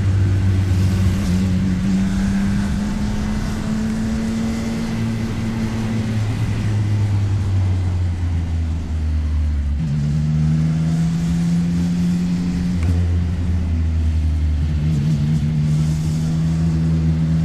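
CFMOTO 675NK motorcycle's inline-three engine running while riding. Its note holds level for a few seconds, then steps to a new pitch several times as the throttle and gears change, over the rush of wind.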